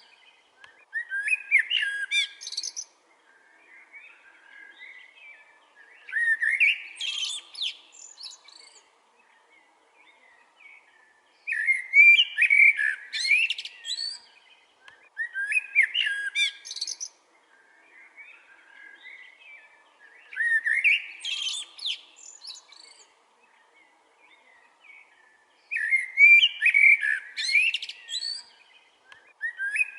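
Songbird singing a loud, fast, warbling phrase of about two seconds every four to five seconds, with fainter birdsong in the pauses between.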